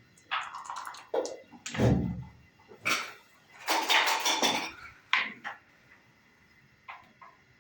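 Backgammon checkers clacking onto a board and dice rattling in a cup and tumbling out, in a string of separate knocks and clatters. There is a longer rattle about four seconds in.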